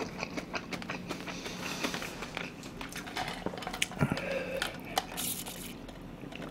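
Close-miked chewing of kimchi fried rice, with many small wet mouth clicks. Just after four seconds in there is a knock as a metal tumbler is picked up, followed by a short sip from it.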